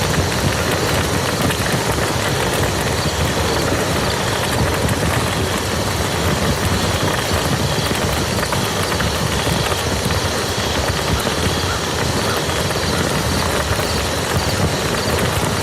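Steady rain falling on a muddy field, a dense, even patter of countless drops with no letup.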